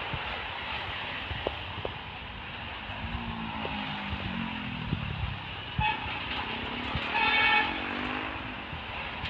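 Road traffic going by, with a heavy vehicle's engine passing and dropping in pitch. A vehicle horn gives a short toot about six seconds in, then a longer, louder blast a second later.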